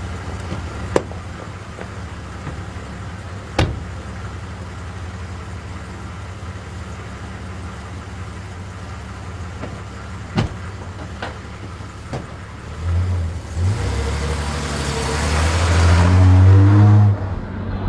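Car engine running steadily, with a few sharp clicks, then about 13 seconds in it revs up as the car accelerates, its pitch rising and the sound growing loud before dropping off near the end.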